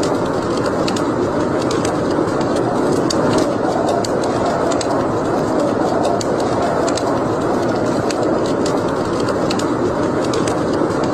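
Wood fire burning in a fireplace: irregular sharp crackles and pops, several a second, over a steady rushing noise.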